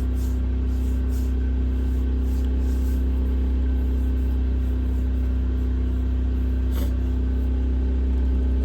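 Firman portable gasoline generator running steadily, a constant low hum with a steady higher tone, with one faint click about seven seconds in.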